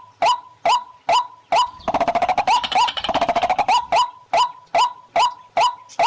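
Waterhen calling: a loud, clipped call repeated steadily about twice a second, broken about two seconds in by a rapid chattering rattle lasting about two seconds before the steady calls resume.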